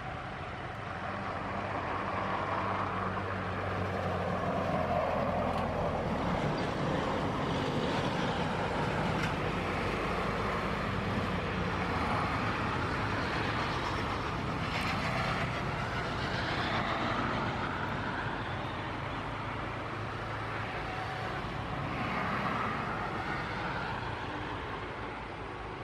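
Boeing 737-800's CFM56 jet engines at taxi power, a steady roar with a low hum under a hiss that sweeps slowly up and down in pitch as the airliner moves. It swells about two seconds in and eases a little near the end.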